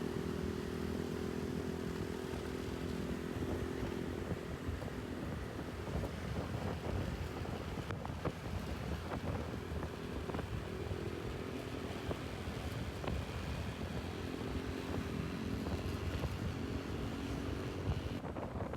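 An engine running at a steady speed, a low hum that fades and returns, over a constant rush of wind on the microphone.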